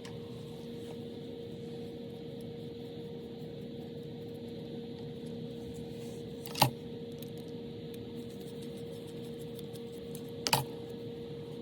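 Steady electrical hum with two sharp clicks of small hard objects, about four seconds apart, the second a quick double click.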